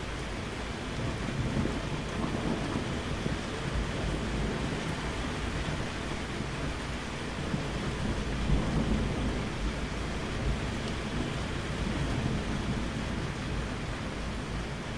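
Steady rain with low rolling thunder rumbling beneath it, the thunder swelling about halfway through.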